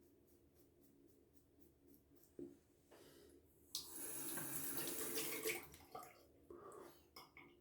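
Bathroom sink tap running for about two seconds, water rushing and splashing in the basin, with a few small splashes before and after.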